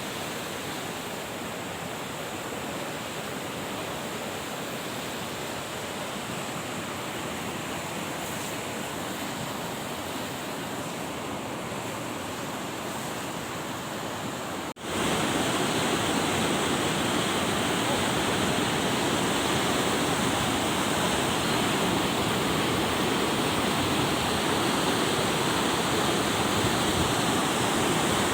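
Rushing mountain water, a steady dense hiss like a fast stream or waterfall. Almost halfway through it breaks off for an instant and comes back louder.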